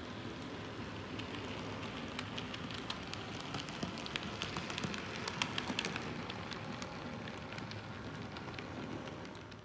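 Model trains running on a layout: a steady rumble of small locomotive motors and wheels on the track, with many light clicks as the wheels cross rail joints and turnouts.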